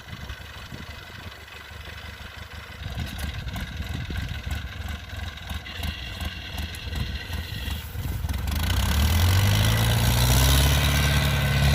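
Kubota DC70 combine harvester's diesel engine running, then revving up and growing louder from about eight seconds in.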